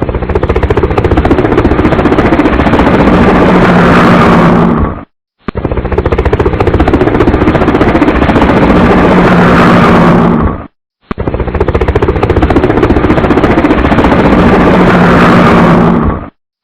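Helicopter rotor chop and engine noise, loud and rapidly pulsing. It cuts off to silence about every five and a half seconds and starts again, repeating the same stretch three times.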